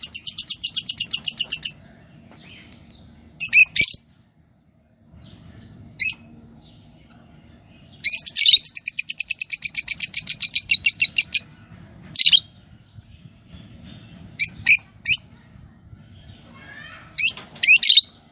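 Lovebirds chirping: two long runs of fast, evenly repeated shrill notes, one at the start and one about eight seconds in, with short sharp calls between them.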